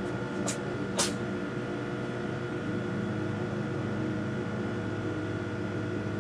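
A steady mechanical hum with several held tones, with two sharp clicks about half a second apart near the start.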